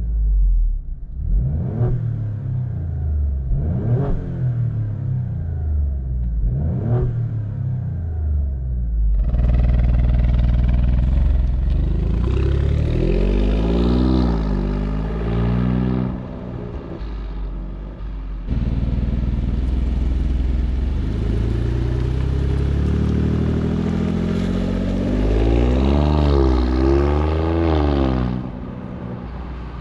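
Alfa Romeo Stelvio Quadrifoglio's twin-turbo V6 engine revved in a few short blips. About nine seconds in it gets louder and runs hard, its pitch climbing and dropping repeatedly, in two long stretches with a brief dip between them.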